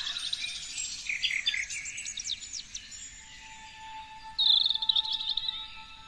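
Songbirds singing: a fast trill at the start and again about four and a half seconds in, with a run of quick, sharp chirps between.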